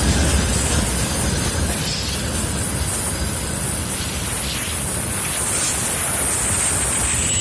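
Freight train wagons rolling past at low speed: a steady rumble of wheels on rail with a high, wavering squeal of wheels.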